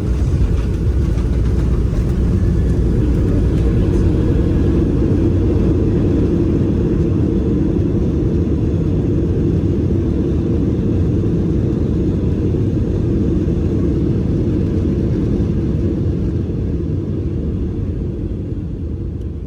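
Steady low rumble of a jet airliner heard from inside the cabin, easing off slightly near the end.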